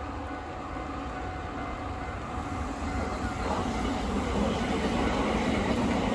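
Train coming out of a tunnel on an electrified line, its running noise growing steadily louder as it passes.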